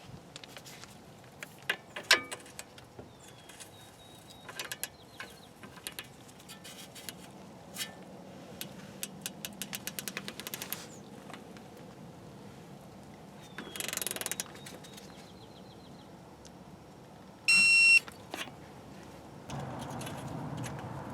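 Hand tools at work on a car's wheel hub assembly: scattered metal clicks and clinks, a quick run of even clicks, and a short hiss. A brief loud beep comes near the end.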